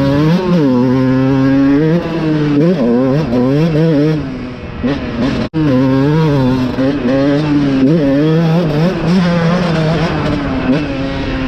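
Dirt bike engine under riding load, its pitch rising and falling again and again as the throttle is worked and gears change. The sound drops out abruptly for an instant about halfway through.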